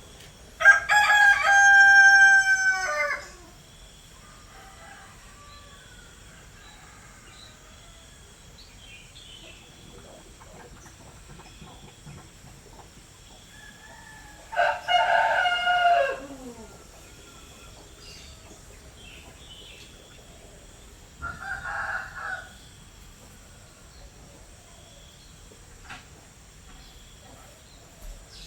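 Rooster crowing: one long, loud crow near the start, then a second crow about 14 seconds in that trails off falling in pitch. A shorter, fainter call follows about 21 seconds in.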